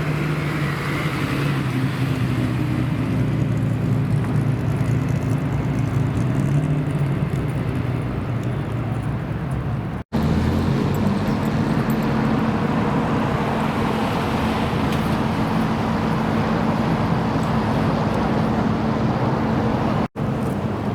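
Car engines running at steady revs, a low steady hum with little change in pitch, in three stretches split by abrupt cuts about 10 and 20 seconds in.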